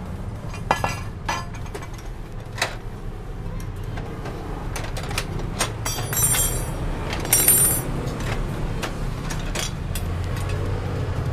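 Hand tools clicking and clinking against the Yamaha NMAX engine's metal casings as it is unbolted, with two brighter ringing metal clinks about six and seven seconds in. A low steady hum runs underneath.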